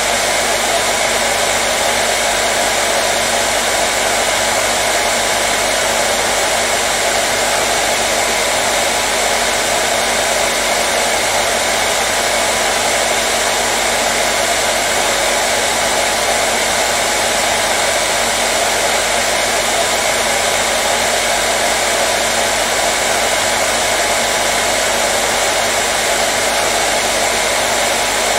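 Hair dryer running continuously: an even, unbroken rush of blown air with a faint steady motor hum underneath, used as soothing noise for colicky babies.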